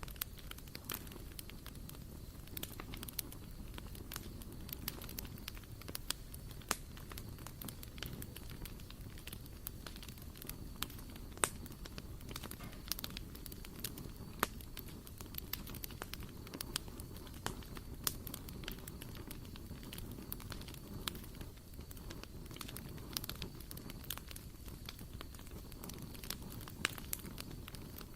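Small wood fire burning in a barbecue grill: irregular sharp crackles and pops, several a second, over a steady low rumble of the flames.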